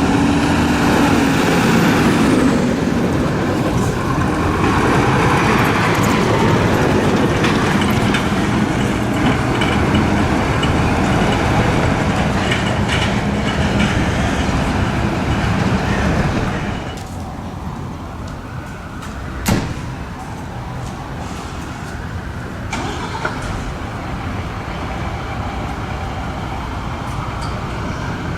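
Heavy fire engines running and driving off, a loud steady engine-and-road noise. About two-thirds of the way through, the sound cuts abruptly to quieter street traffic, and a single sharp click follows a few seconds later.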